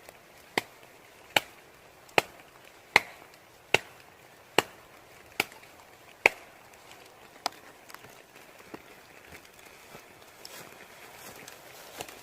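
Chopping strikes, a blade biting into wood, in a steady rhythm of about one every 0.8 seconds. Eight sharp blows are followed by a single weaker one, and then they stop.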